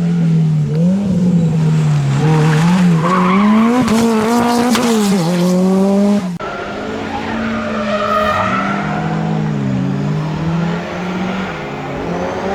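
Rally car engine revving hard, its pitch rising and falling again and again as the driver works the throttle. About six seconds in the sound cuts abruptly to a somewhat quieter stretch of engine running, rising and falling in pitch.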